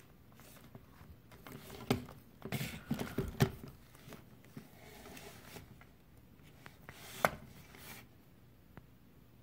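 Toy monster trucks being handled on a hard surface: a few knocks and light rubbing, bunched about two to three and a half seconds in, with one more sharp knock about seven seconds in.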